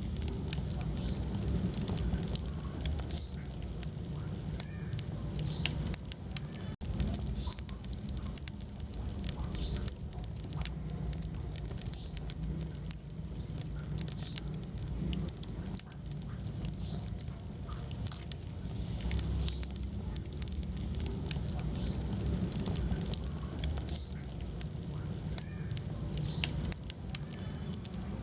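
Wood fire in a fireplace crackling, with many small irregular pops and snaps over a low steady rumble of burning. The sound drops out for an instant about seven seconds in.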